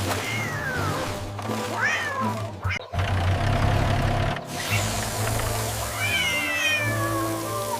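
Cat meowing a few times, mostly with falling pitch and a longer call near the end, over steady background music.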